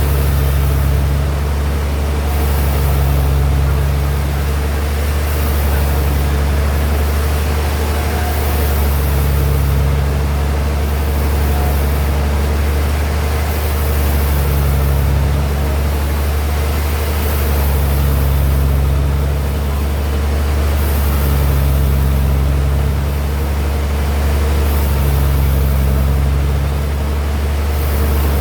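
Sawmill bandsaw machinery running steadily with a strong low hum, and a regular swell in the sound about every three to four seconds.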